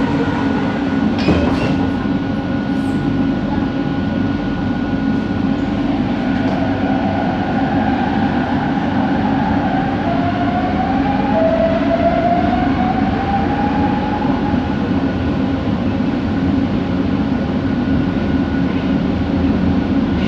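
Cabin sound of a Bombardier Innovia ART 200 metro train running, its linear induction motors giving a steady hum with an unusual whine that glides up in pitch several times. A click comes about a second in.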